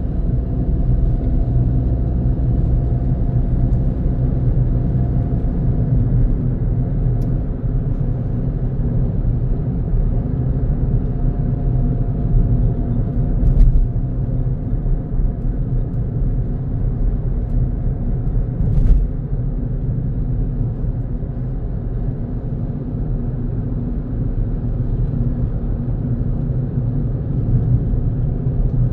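Car driving steadily on a road, a continuous low rumble of engine and tyre noise. Two brief thumps stand out, one about halfway through and another some five seconds later.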